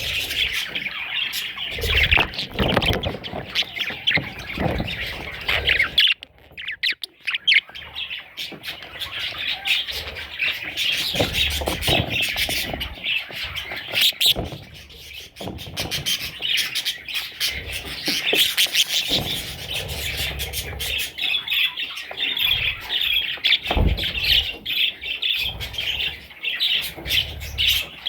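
Budgerigar chicks squawking and chirping, a busy chatter of short raspy calls with a brief lull about six seconds in.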